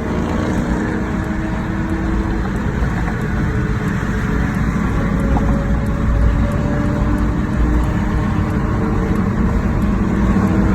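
Motorcycles running steadily at freeway speed: a continuous engine and road rumble with faint engine tones drifting slowly in pitch.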